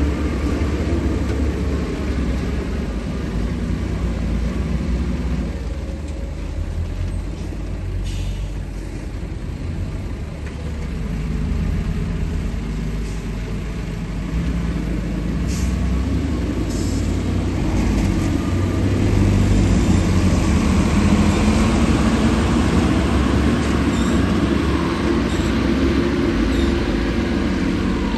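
Remote-control bulldozer running and working, its motors and tracks making a steady machine sound that grows louder about halfway through.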